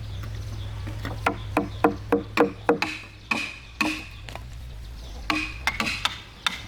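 A tool striking wood in a run of sharp knocks, about three a second at first and then more scattered, over a steady low hum.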